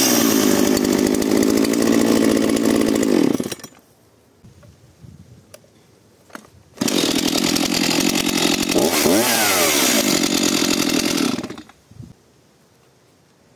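Two-stroke petrol chainsaw running at full throttle for about three and a half seconds, then stopping abruptly. After a quiet gap with a few faint clicks, it runs at full throttle again for about five seconds, its pitch dipping briefly and recovering near the middle.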